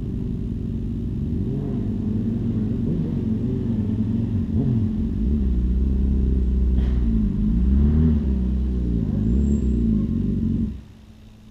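Motorcycle engines running, their pitch rising and falling as the throttle changes. The sound cuts off abruptly near the end, leaving a faint steady hum.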